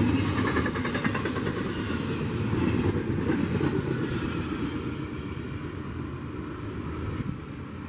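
Double-stack intermodal freight train's container well cars rolling past at speed: a steady rumble and rattle of steel wheels on the rails, slowly getting quieter.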